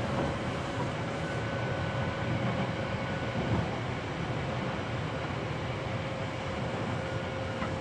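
Hankyu 7300 series electric train running at steady speed, heard from inside the car at floor level: a continuous rumble of wheels on rail with a faint steady tone above it.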